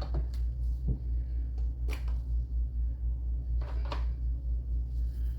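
Steady low hum with a few light clicks and taps, about one and two seconds in and again near four seconds, as silver coins and rounds are handled while being counted.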